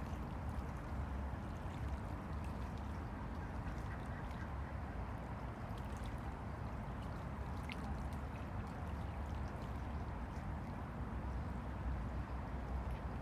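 Small river waves lapping and washing against the bank in a steady, low wash of water. A brief, high, rising chirp sounds once about halfway through.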